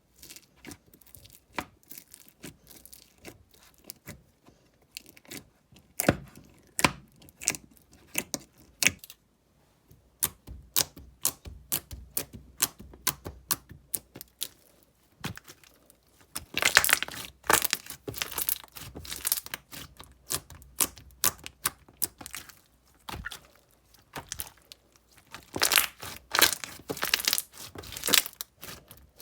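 Slime being squished and stretched by hand, giving rapid clicking and crackling pops, with two denser, louder runs of clicks, one past the middle and one near the end.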